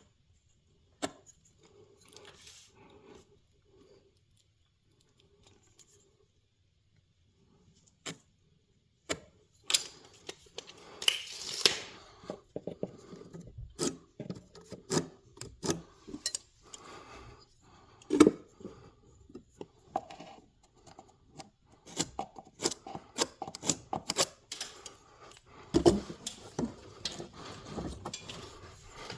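Irregular clicks, clinks and knocks of tools and metal hardware being handled against wood. Sparse at first, then busier and louder from about ten seconds in.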